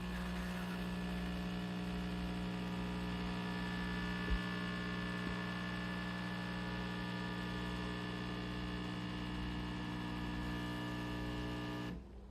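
De'Longhi Magnifica Start fully automatic espresso machine running with a steady, even hum that cuts off suddenly near the end, with a single short click about four seconds in.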